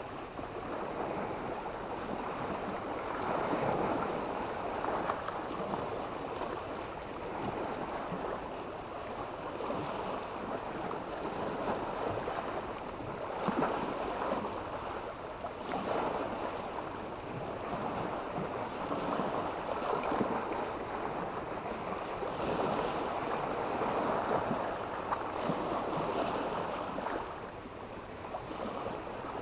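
Sea waves breaking and washing up a beach, a continuous surf that swells and eases every few seconds.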